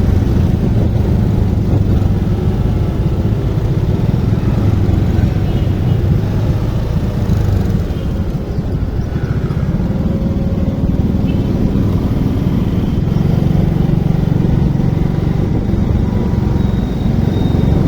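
Motorcycle running while being ridden, a steady loud low rumble that dips slightly about eight seconds in.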